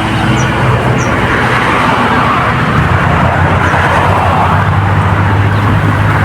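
Road traffic running steadily, with a vehicle's hum and tyre noise swelling in the middle. A few faint high chirps sound over it.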